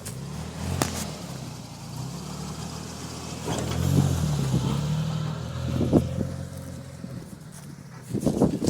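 A Jeep's engine revving up and down under load on an off-road trail, with a few sharp clicks and knocks, and a cluster of knocking near the end.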